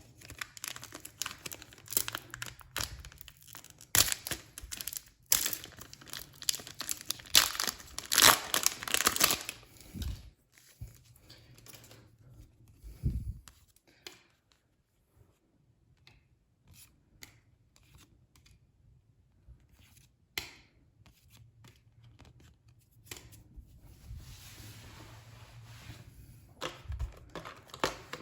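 Plastic packaging of a Pokémon card booster box being torn open and crinkled by hand: dense crackling tearing for about the first ten seconds, then scattered crinkles and light taps, a softer steady rustle near the end, and more crinkling.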